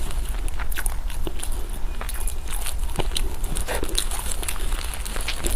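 Close-miked eating sounds: irregular wet clicks and smacks of chewing food, over a steady low hum.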